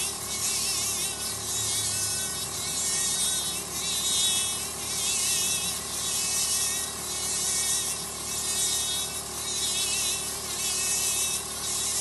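Podology drill with water spray running: a steady high whine over a hiss that swells and fades every second or two.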